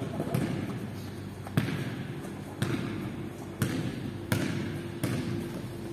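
Basketball bouncing on a hard gym floor as it is dribbled, sharp bounces roughly once a second, echoing in a large sports hall.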